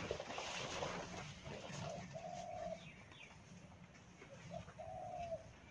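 Rustling and footsteps in dry leaves and undergrowth at first, then a bird giving two short, even hooting notes a couple of seconds apart.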